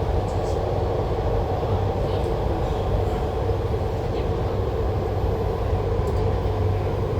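MTR Tuen Ma line IKK-Train running between stations, heard from inside the car: a steady rumble of wheels on rail and traction equipment with a low hum, holding an even level throughout.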